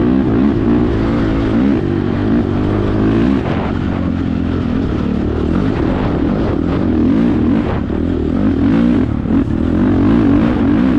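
Honda TRX450R quad's single-cylinder four-stroke engine running through an HMF aftermarket exhaust, revving up and down repeatedly as it is ridden hard, easing off briefly midway and again near the end.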